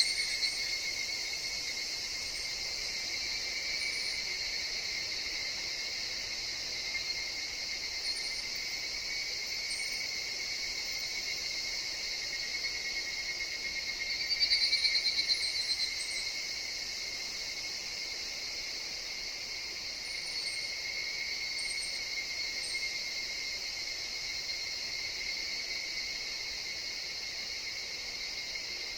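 Higurashi (evening cicadas) and other insects calling together in a steady, unbroken chorus. About halfway through, one nearer call swells louder for a second or two and then fades back into the drone.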